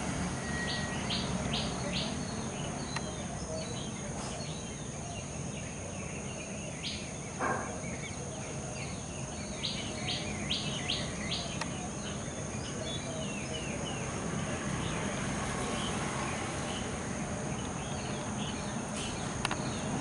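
Wild birds calling: short sharp chirps, including two runs of four quick notes, one about a second in and one about ten seconds in. Behind them run a steady high insect drone and a low outdoor rumble.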